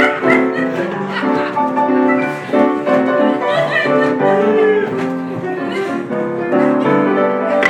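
Piano music, a run of notes changing every fraction of a second.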